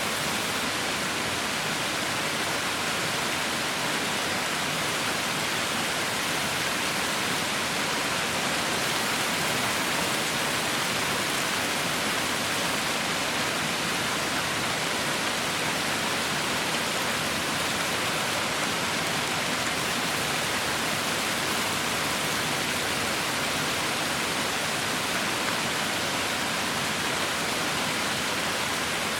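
Heavy rain falling steadily, a dense even hiss with no individual drops standing out.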